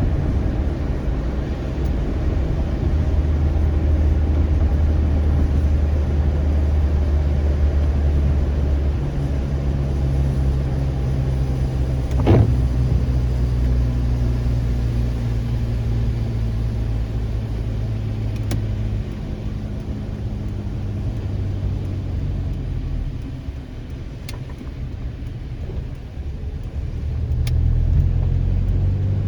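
A car's engine and road rumble heard from inside the cabin while driving, a steady low drone that shifts in pitch now and then. There is one sharp click about twelve seconds in, and a few fainter ticks later.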